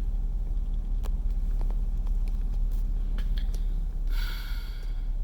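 Steady low rumble of a car, heard from inside the cabin, with a few faint clicks and a brief higher-pitched sound about four seconds in.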